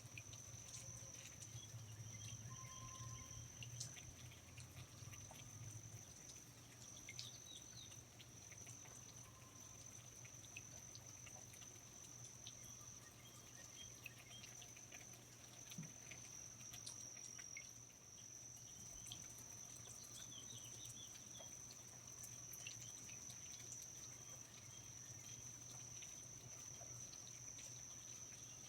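Faint rainforest ambience: a steady high-pitched insect trill holds throughout, with scattered drips and small chirps over it and a low hum beneath.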